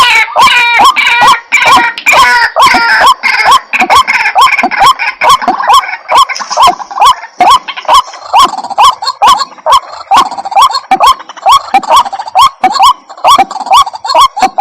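White-breasted waterhen calling: a loud, fast, steady series of hooked notes, about two or three a second, with the notes crowding and overlapping in the first few seconds.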